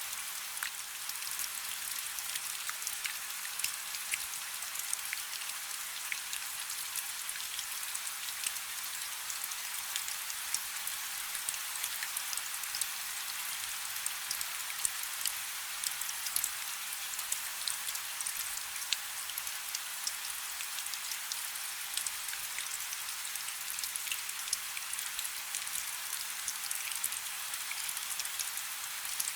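Steady rain falling on a river: an even hiss with many small, sharp ticks of individual drops hitting the water.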